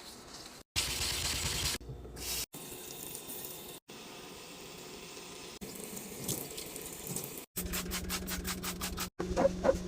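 Water running from a tap into a sink, in several short clips that cut off abruptly between them.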